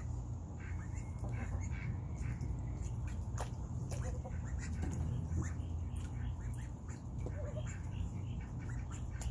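Young Indian runner ducks making many short, scattered quacks and calls over a steady low hum.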